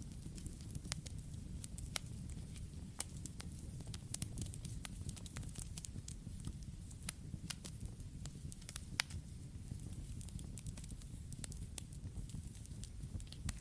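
Campfire burning with a steady low rumble of flames and irregular sharp crackles and pops from the burning wood, one louder pop about nine seconds in.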